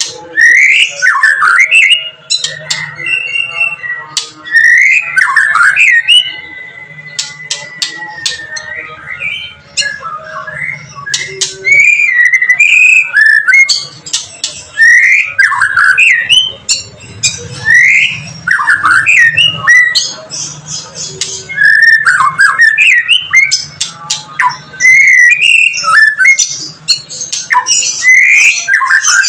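White-rumped shama singing loudly in fired-up, fight-ready form: rapid sweeping whistled phrases and chattering notes with sharp clicks, and one long steady whistle about six seconds in.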